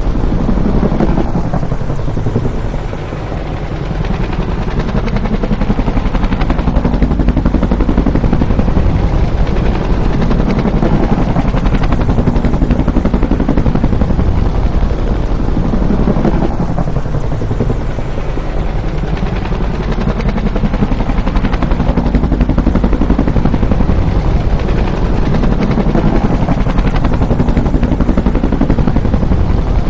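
Bell UH-1 Huey helicopter flying by, its rotor blades beating in a dense, steady rhythm over the turbine's rush. Twice, about 14 s apart, the loudness dips briefly and the pitch swoops down and back up as it passes.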